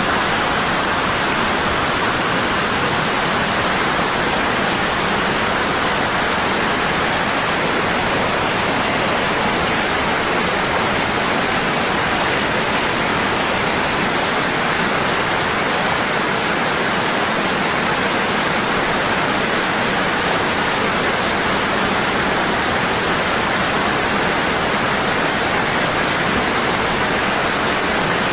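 Waterfall pouring strongly and steadily: an even, unbroken rush of falling water.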